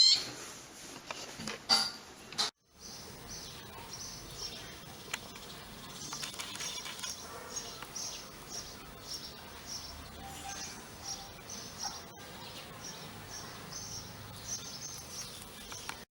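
Small birds chirping: short, high chirps repeating about two or three times a second over a faint hiss, after a sharper high call at the very start.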